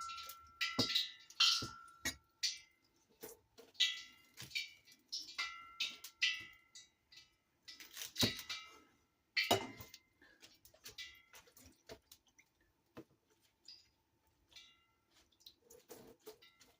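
Irregular knocks and taps of a knife cutting bok choy on a cutting board, some with a short metallic ring, with quieter gaps between bursts.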